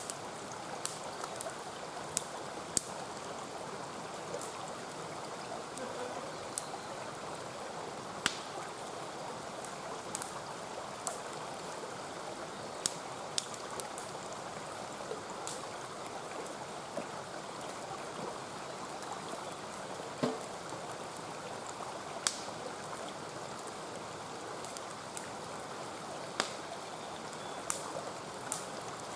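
Mountain stream flowing steadily, with sharp crackles and pops from a wood campfire scattered irregularly through it.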